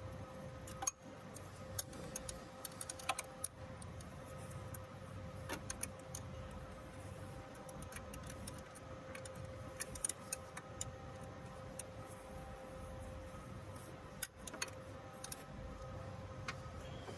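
Irregular metallic clicks and clinks of hand tools being handled, some in quick clusters and some single, over a steady faint hum.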